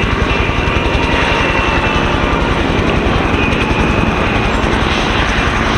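A helicopter running, with a rapid, steady low pulsing.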